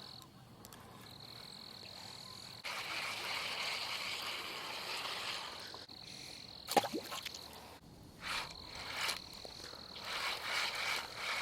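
Frogs calling around a pond, a steady high-pitched trill that carries on with one short break, over outdoor background noise. A single sharp knock comes about two-thirds of the way through.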